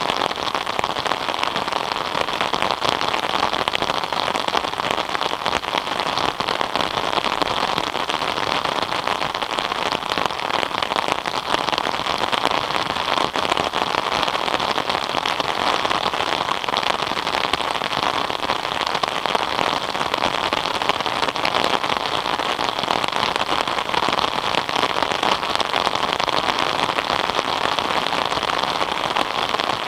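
Steady rain falling, a dense even patter of drops on surfaces with no change in strength.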